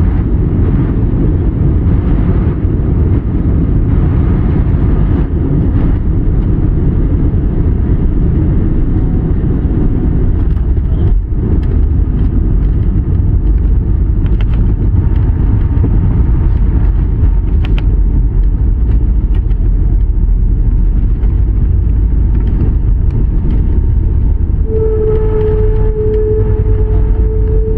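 Airliner cabin noise heard from a window seat: a loud, steady low rumble of jet engines and airflow. About 25 seconds in, a steady whining tone joins it.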